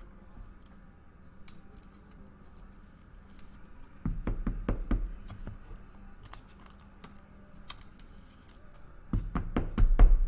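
Trading cards and hard plastic top loaders being handled on a tabletop: quiet handling, then two clusters of sharp taps and knocks, about four seconds in and again, louder, near the end.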